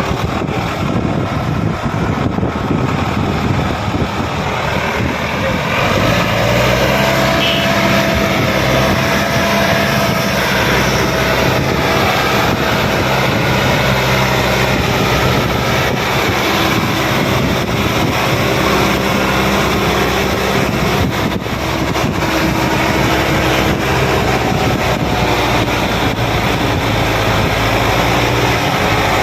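Sonalika 750 tractor engine running under load while it pulls a trailer fully loaded with soil. Its note settles into a louder, steady drone about six seconds in.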